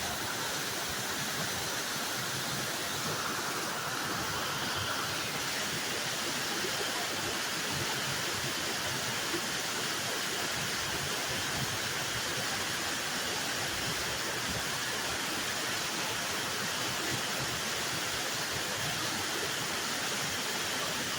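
Sekumpul Waterfall's falling water: a steady, even rush of noise.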